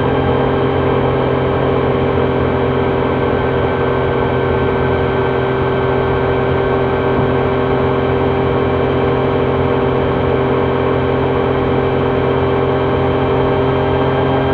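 Triumph Trident 660's inline three-cylinder engine running at a steady, unchanging pitch, heard from the rider's position.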